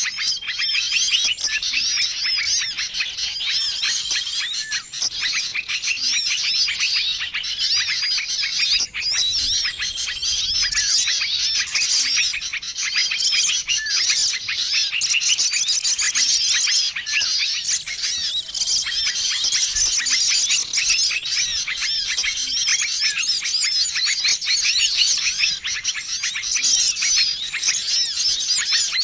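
A dense, busy chorus of many small songbirds chirping and twittering over one another, with a short level whistle recurring every few seconds. It is a mixed bird-lure recording for attracting wild small birds.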